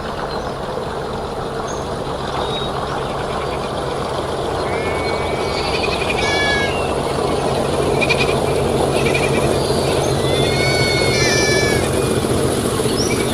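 Diesel locomotive engine running steadily and growing gradually louder, with high animal calls over it from about a third of the way in.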